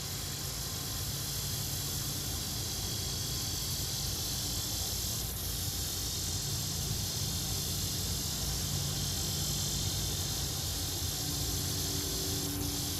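Steady outdoor ambience: an even, high-pitched insect hiss over a low rumble with a faint hum.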